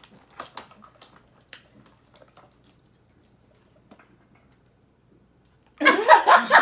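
Light clicks and soft squishy taps of seafood-boil food and shells being handled, then a pause. Loud laughter breaks out near the end.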